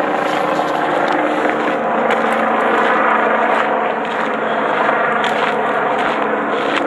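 Loud, steady engine drone with a constant low hum underneath.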